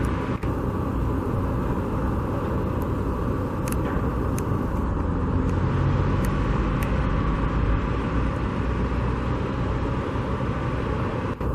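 Steady road traffic rumble, a continuous low drone and hiss of passing vehicles, with a few faint clicks.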